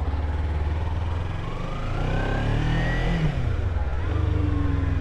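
Kawasaki Ninja 300's parallel-twin engine pulling the bike along, its pitch rising and then dropping back about three seconds in.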